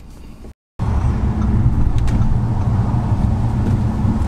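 Audi RS3's turbocharged five-cylinder engine and exhaust heard from inside the cabin while driving: a steady low drone that starts after a brief break in the sound about a second in. The car is on a Stage 2 tune with an aftermarket downpipe and otherwise stock exhaust.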